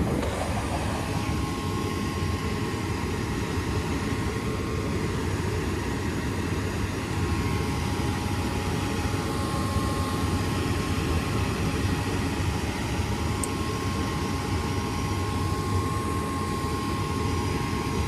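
Goodman gas furnace running after being restarted: a steady low rumble with a faint steady whine on top, unchanging throughout.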